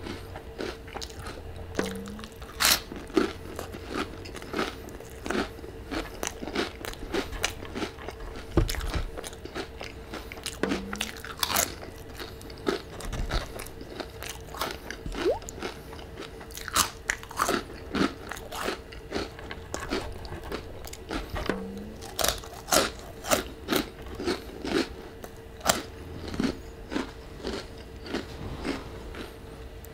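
Close-miked crunchy eating: a crisp tostada shell and Hot Cheetos crunching between the teeth, many sharp irregular crunches with chewing in between. A faint steady hum runs underneath.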